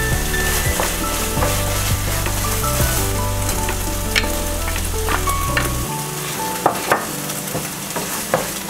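Red curry paste sizzling as it fries in a nonstick saucepan. In the second half a wooden spatula stirs it, with a few sharp clicks and scrapes against the pan.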